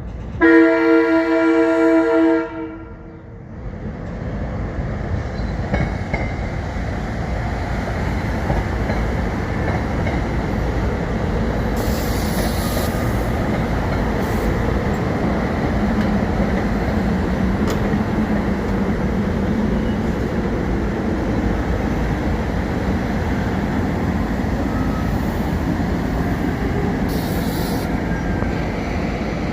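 A SEPTA Regional Rail train's horn sounds one blast of about two seconds. About a second later the train's steady rumble and wheel noise build up and carry on as it moves along the track.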